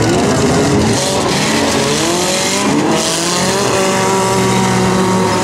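Several car engines running hard and revving at once, their pitches rising and falling and overlapping.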